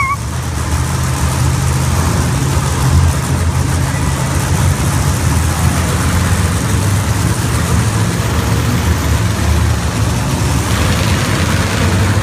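Monster truck engine running loud and steady, its low drone under a broad rush of noise.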